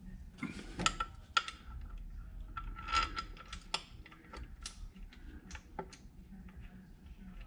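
Irregular light metallic clicks and clinks, with sharper ringing ones about a second and three seconds in, from the bolts and the oil filler neck being handled and set onto the cylinder head.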